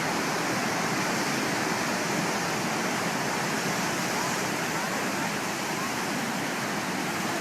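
Steady rushing noise of breaking waves and wind, even and unbroken throughout.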